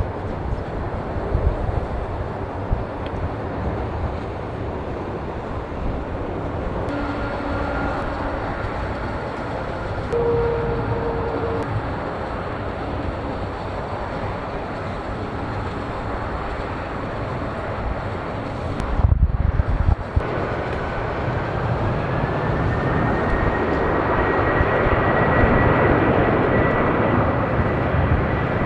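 Jet airliner engines running loud and steady, a rumbling roar with faint whining tones. After a brief break about two-thirds of the way through, an engine whine rises in pitch and the roar grows louder, as at the start of a takeoff.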